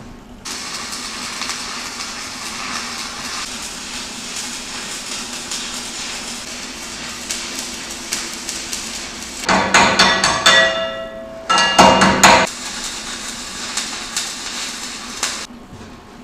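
Stick welding on steel with 2.5 mm electrodes: the arc crackles and hisses steadily, stopping shortly before the end. In the middle come two bursts of loud hammer blows that ring like struck steel.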